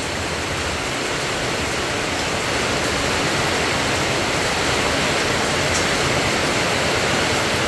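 Heavy rain pouring steadily onto a flooded street and tarpaulin awnings, heard from under a tarp canopy, building slightly louder.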